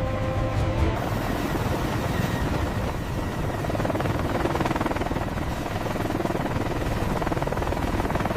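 Heavy-lift helicopter in flight: a steady, loud wash of rotor and turbine noise, which takes over from a fading musical tone about a second in.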